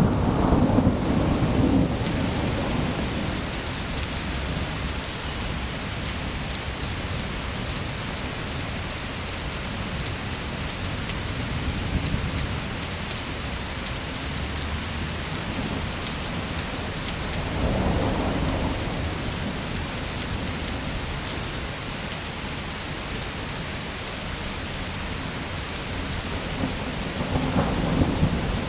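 Steady heavy rain with thunder rumbling in the distance: one rumble fading out at the start, another a little past halfway, and a third building near the end.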